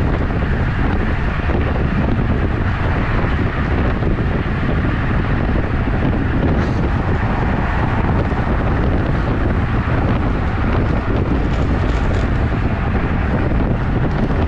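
Steady, loud wind rush buffeting the microphone of a camera riding along on a moving road bike.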